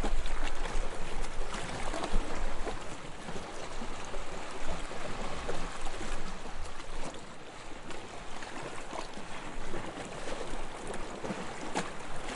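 Soft waves lapping on a sandy shore: a continuous gentle wash of water with small splashes and fizzing, swelling and easing without any breaking surf.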